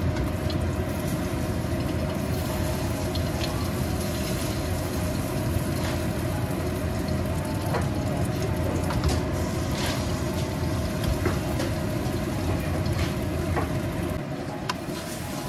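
Egg and dried radish omelette frying in oil in a wok, a steady sizzle over a low rumble, with light scattered ticks and scrapes of a spatula against the pan.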